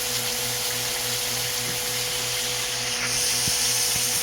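Pot of soup cooking on the stove: a steady rushing noise with a low hum underneath, getting a little brighter and louder about three seconds in.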